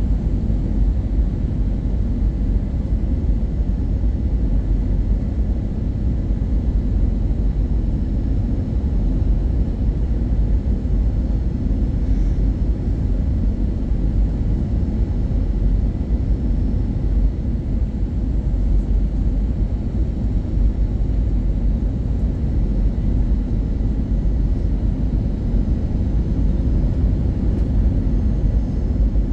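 Steady low rumble inside the cabin of an Airbus A320-232 in motion, even throughout with no rise or fall in level.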